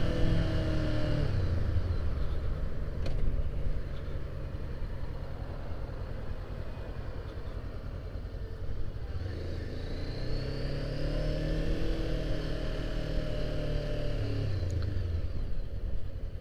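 Honda CBR500R's parallel-twin engine under way, with a steady low wind rumble. The engine eases off at the start, then pulls with a rising note about nine seconds in, holds, and drops back near the end.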